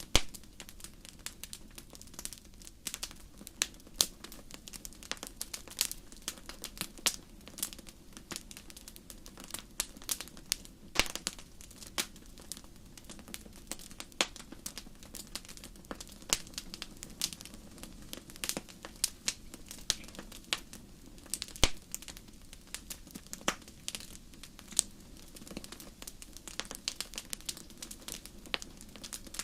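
Wood fire burning in a fireplace, crackling with many irregular sharp pops over a low steady hiss.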